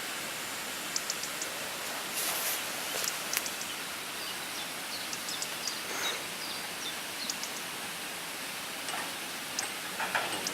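Steady outdoor background hiss with scattered faint clicks and a few faint, high, short chirps around the middle.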